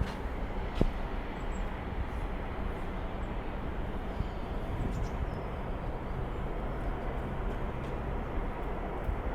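Embraer 190 jet airliner's twin turbofan engines heard at a distance as a steady, even rumble, with a sharp click about a second in.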